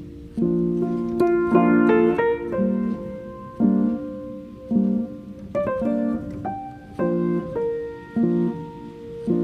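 Calm piano music: soft chords struck roughly once a second under a slow melody line.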